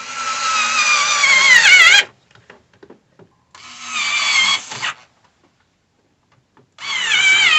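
Cordless drill-driver run in three bursts. Its motor whine drops in pitch as it comes under load each time, as when driving a fastener home.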